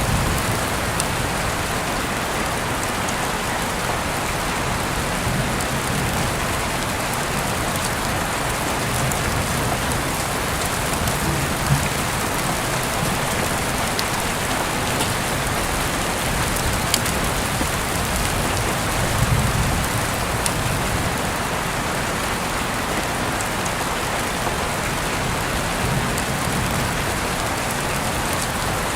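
Steady rain, an even hiss of drops on surfaces with a few sharp ticks and some soft low swells now and then.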